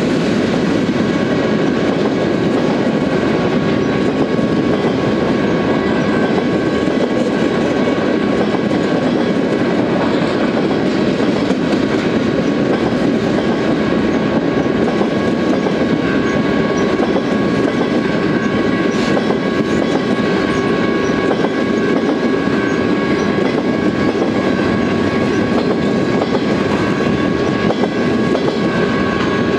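Flatcars of a freight train loaded with military armoured vehicles and trailers rolling past close by: a steady, loud rumble and clatter of wheels over the rail joints, with a thin, steady high-pitched ring running through it.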